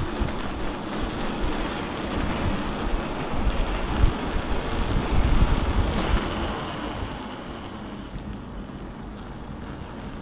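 Wind buffeting the microphone of a moving bicycle, over road and traffic noise that is louder at first and dies down about two-thirds of the way through.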